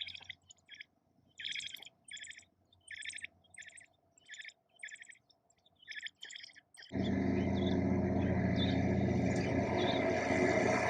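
Baby birds in the nest chirping in short repeated bursts, about ten in the first seven seconds. About seven seconds in, a loud steady rushing noise with a low hum cuts in suddenly and covers them, with a few chirps still heard through it.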